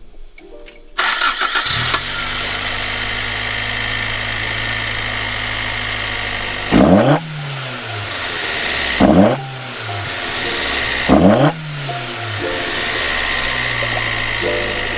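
Toyota AE86 Sprinter Trueno's 4A-G four-cylinder engine cranked by the starter and catching within about a second, then idling steadily. It is blipped three times, each a short sharp rev that rises and falls back to idle.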